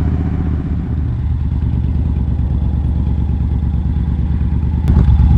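Motorcycle engine running steadily while riding, getting louder after a sharp click near the end.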